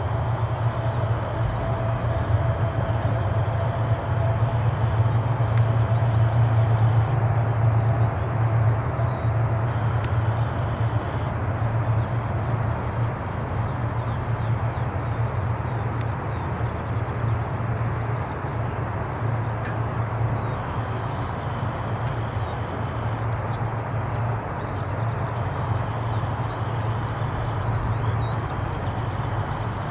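Aircraft engines running steadily: a constant low drone with a faint high tone that comes and goes.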